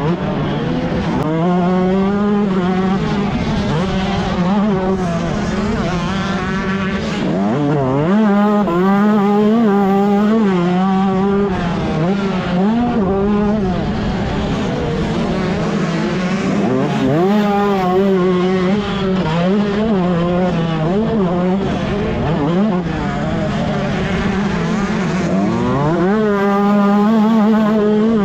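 125cc two-stroke motocross bike engine racing, revving hard and shifting up through the gears again and again: the pitch climbs in rising sweeps, then falls back as the throttle is shut.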